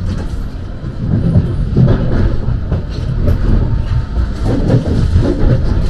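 A London Underground Jubilee Line 1996 Stock train running on the rails: a steady low rumble that grows louder about a second in, with uneven knocks from the wheels.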